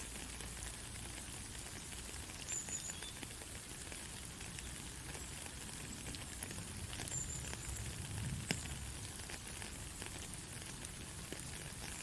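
Heavy rain falling steadily, a dense hiss with scattered sharp drop ticks, and a soft low rumble swelling briefly about eight seconds in.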